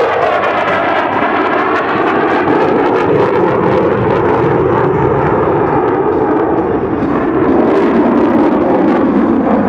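F-16 Fighting Falcon's F110-GE-129 afterburning turbofan engine in flight, a loud steady jet roar whose pitch shifts in the first second or so as the jet moves past.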